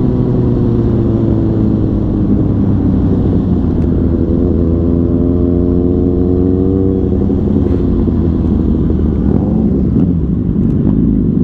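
Motorcycle engine under way, its pitch falling for the first couple of seconds, then climbing steadily for several seconds as it accelerates, dropping sharply about seven seconds in, then running steady.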